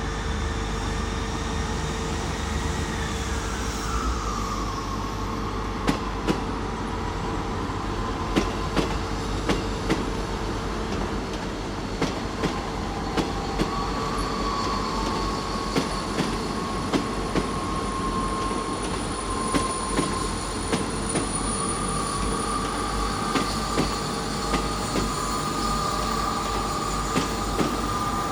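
A South Western Railway Class 159 diesel multiple unit pulling out of the station. Its wheels squeal with thin tones that slide down in pitch early on and return about halfway through, and from about six seconds in there are repeated sharp clicks as the wheels run over rail joints and pointwork.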